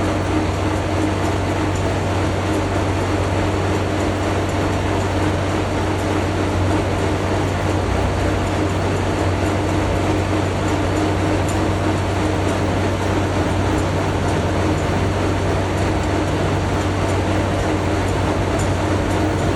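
Machinery running with a steady, loud drone: a constant low hum with a fixed tone above it, unchanging throughout.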